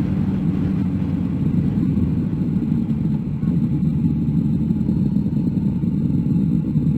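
Motorcycle riding on the road: a steady engine note under a low rumble of wind and road noise.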